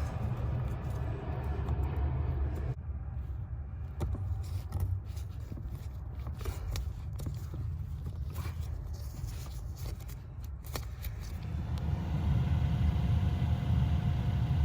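Scattered clicks and light scrapes of hand work on plastic parts, mostly in the middle, over a steady low rumble that dips early and grows louder again near the end, when a faint steady hum also begins.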